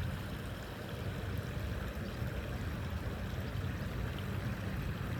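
Steady rushing noise of flowing creek water, even throughout with no distinct events.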